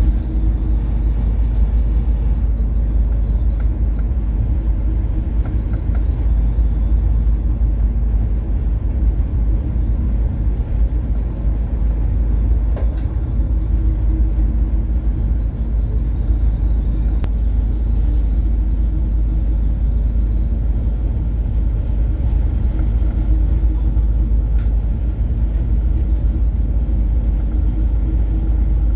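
Coastal cargo ship under way, its engine giving a steady deep rumble with a constant hum through the hull.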